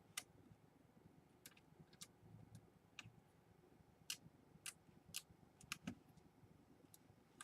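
Faint, scattered light clicks and taps, about a dozen at irregular intervals, from small laptop parts being handled and fitted during reassembly.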